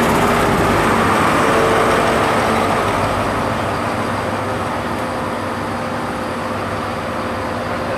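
InterCity 125 High Speed Train pulling slowly into the platform: the Mark 3 coaches rolling past with a steady rumble and the hum of the diesel power car, easing off gradually as the train slows.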